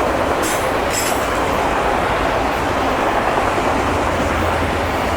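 A loaded CSX autorack freight train's cars rolling past close by: a steady, loud rumble and clatter of steel wheels on rail, with two brief high-pitched squeaks about half a second and a second in.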